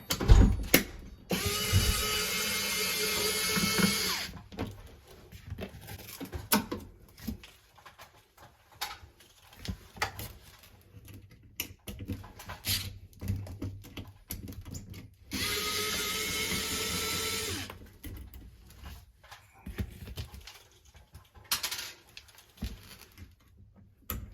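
Handheld power drill running twice in steady bursts, about three seconds near the start and two seconds in the middle, with clicks and knocks of tools and fittings being handled between.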